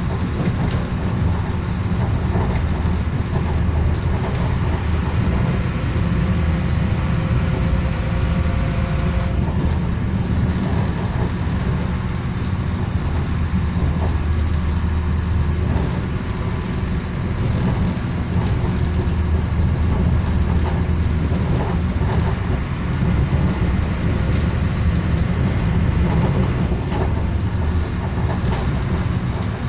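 Inside a moving passenger train: a steady low rumble of the running wheels and carriage, with a few faint clicks.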